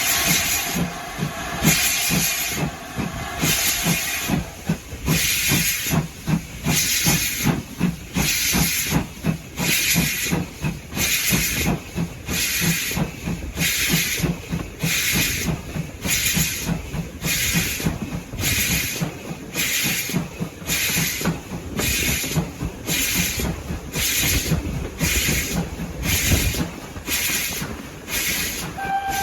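Steam locomotive working steadily, its exhaust beating at about one chuff a second over a faster low rumble of the train. A held tone dies away over the first few seconds, and another begins at the very end.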